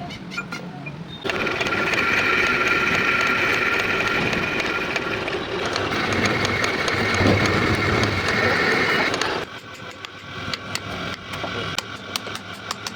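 A workshop machine runs loudly for about eight seconds, starting suddenly just after a second in and stopping suddenly near the end, with a few steady high tones in its noise. Quieter rapid ticking comes before and after.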